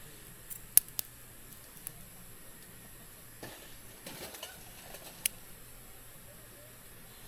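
Wood campfire crackling, with a few sharp pops, the loudest under a second in, and a short rustling scrape of wood being shifted in the fire a little past halfway.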